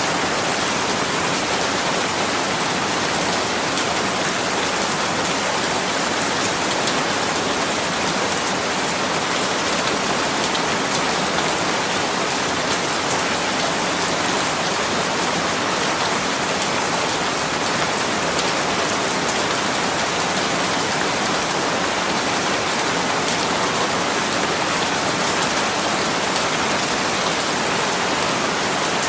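Steady rain falling, an even hiss of many drops striking a surface, with individual drops ticking through it.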